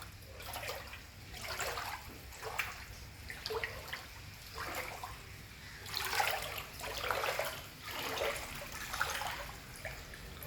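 Floodwater sloshing and splashing in irregular surges, about one a second, louder near the middle.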